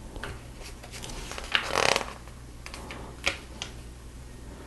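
Plastic Lego pieces being handled and pressed together: scattered small clicks, with a louder rustle of pieces about one and a half seconds in.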